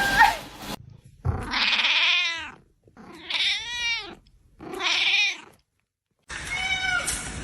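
A domestic cat giving three long, drawn-out meows in a row, each rising and then falling in pitch.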